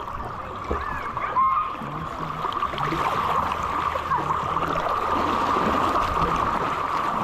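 Steady rush of flowing creek water, with a few faint short pitched sounds over it.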